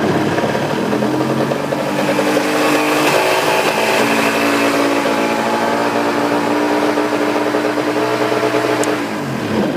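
The left engine of a Yamaha Exciter 270 jet boat runs steadily and loudly, sounding like a beast. Near the end it is switched off and winds down to a stop.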